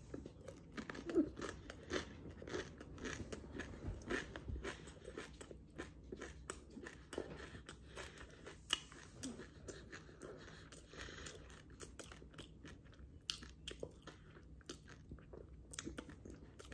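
A person biting and chewing a lobster tail pastry, flaky crisp dough filled with sweet cream: faint, irregular crunching and crackling mouth sounds throughout.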